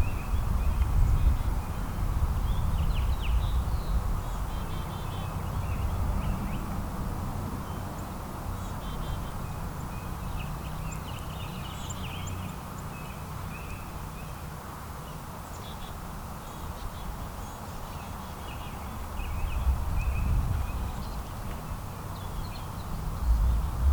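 Small songbirds chirping in short, scattered calls over a steady low rumble that swells near the start and the end.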